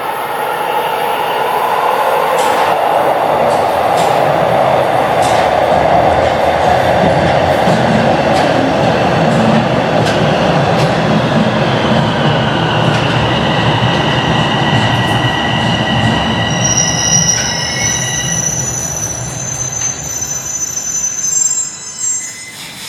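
Toronto Rocket subway train running into the station: a steady loud rumble of wheels and motors, then several high squealing tones from the brakes and wheels over the second half as it slows, dying away near the end.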